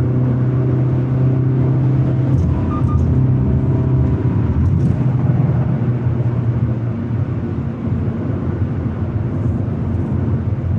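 Hyundai Elantra N's 2.0-litre turbocharged four-cylinder engine and exhaust running on the road. It holds a steady drone for about the first two seconds, then turns rougher and noisier, easing off a little near the end.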